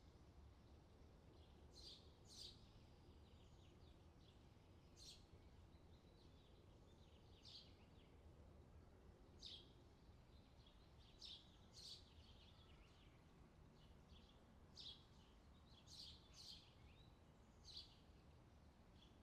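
Faint outdoor summer ambience: short, high bird chirps every second or two over a low steady background hum.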